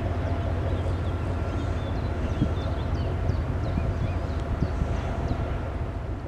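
Diesel engine of a pusher tug running steadily, a low rumble with a fast, even pulse, with short high chirps sounding above it.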